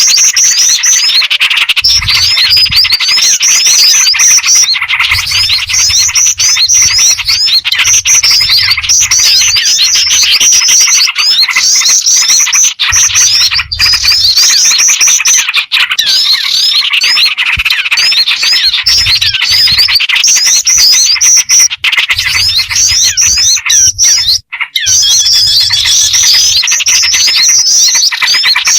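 Bird-lure recording: a loud, dense chorus of overlapping rapid chirps and trills from several small songbirds, mixing black-winged flycatcher-shrike (jingjing batu), small-bird calls and yellow-vented bulbul (trucukan), played continuously to attract wild birds.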